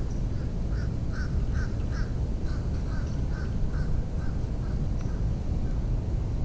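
A bird, crow-like, calling a fast run of about fourteen short repeated notes, about two and a half a second, loudest early and fading toward the end, over a steady low rumble.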